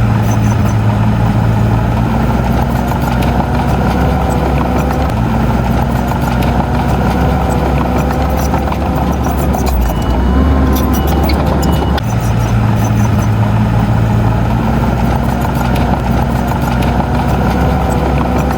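Heavy diesel engine of earthmoving machinery running steadily, its pitch shifting slightly a few times, with scattered clicks and knocks.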